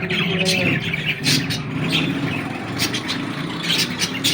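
Birds chirping in many short, sharp calls over a steady low background murmur.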